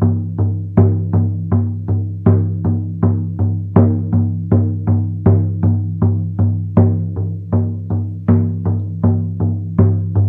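Handmade goat-skin frame drum beaten with a wool-headed beater in a steady rhythm of about two to three strokes a second, every few strokes played louder. Each stroke gives a deep tone that rings on between strokes.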